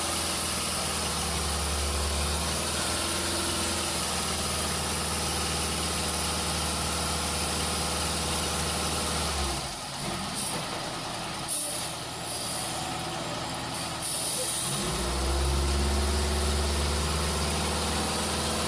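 Heavy truck engine running steadily at low revs. About halfway through, the engine sound drops away for several seconds while the air brakes hiss in three short bursts, and then the engine comes back in.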